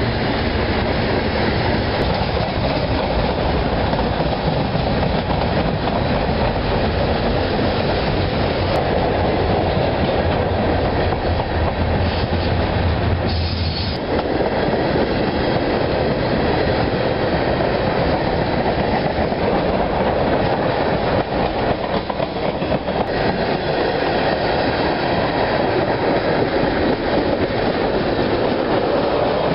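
Freight train cars, covered hoppers and then tank cars, rolling past close by: steel wheels on rail make a steady rumble, with a brief high squeal about halfway through.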